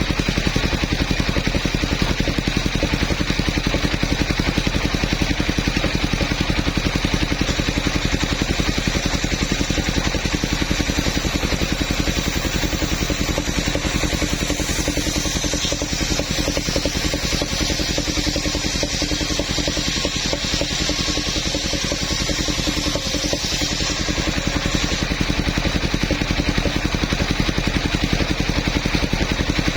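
Engine of a mobile sawmill running steadily with a rapid firing beat; for about ten seconds in the middle a louder high hiss rises over it as the saw cuts through wood.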